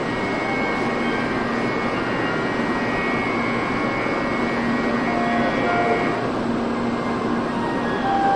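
Steady hum of a Shinkansen train standing at a station platform, with a high steady whine that fades out about six seconds in, over the platform's general background noise.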